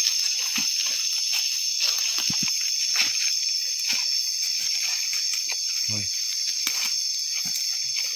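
Steady high-pitched night insect chorus, with scattered small clicks and rustles over it.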